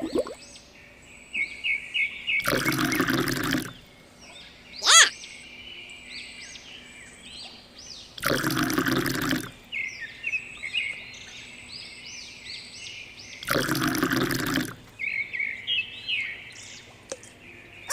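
Small birds chirping repeatedly, broken three times by a rush of water lasting about a second each, roughly five seconds apart. One loud sweeping whistle about five seconds in.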